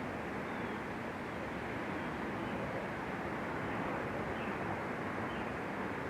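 Steady rushing outdoor background noise, with a few faint, short high chirps scattered through it.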